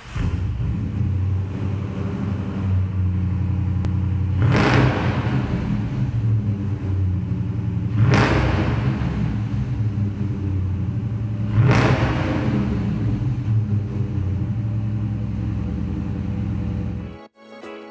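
2019 Dodge Challenger R/T's 5.7-litre HEMI V8 idling with a deep rumble at its dual exhausts in a concrete parking garage. The throttle is blipped three times, about three and a half seconds apart, each rev swelling and falling back to idle. The sound cuts off abruptly near the end.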